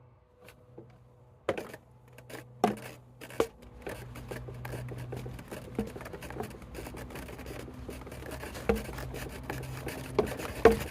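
Wooden deck stair tread being pressed and stepped on to show how it gives: scraping and rubbing with several sharp knocks spread through. The tread is a newer board too thin for its span, with no center stringer under it.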